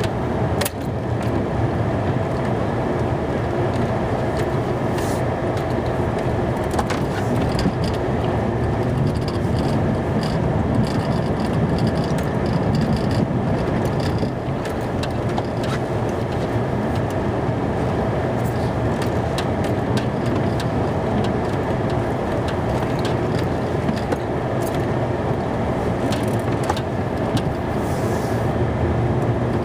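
Plow truck running steadily while plowing snow, with scattered light clicks and knocks.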